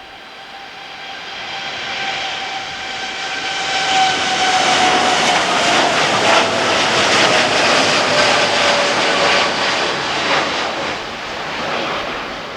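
Jet airliner's turbofan engines at takeoff power passing close by: the engine noise swells to a loud peak over a few seconds and then eases, with a whine that slides steadily down in pitch as the aircraft goes past.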